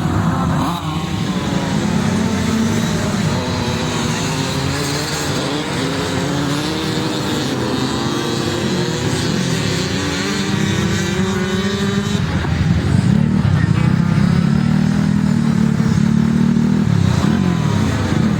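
Several flat-track racing motorcycles running together, their engines revving up and down as they go around the oval. The engines grow louder in the second half as the pack comes closer.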